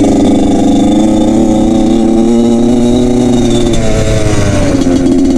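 Dirt bike engine running at steady revs while riding, its pitch easing down a little about four seconds in.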